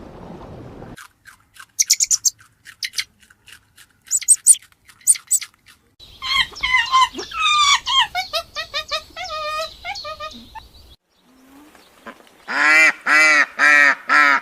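A string of separate bird calls. First come quick, high chirps, then a run of calls that fall in pitch. Near the end a duck gives about six evenly spaced quacks.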